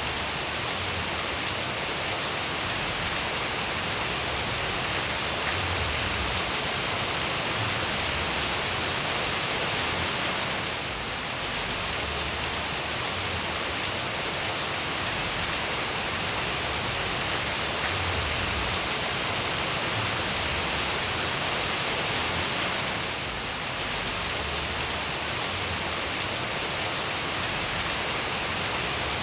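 Steady rain falling, an even dense hiss with no let-up except two brief slight dips in loudness.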